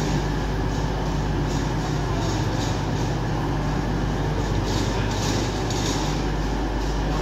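Diesel passenger train moving off along the platform: steady low engine drone and wheel rumble, with scattered higher clattering from the wheels on the track.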